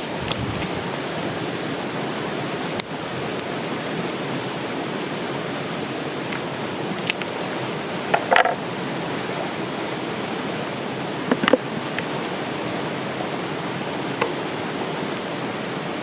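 Steady rushing of a river, with a few scattered light clicks and knocks.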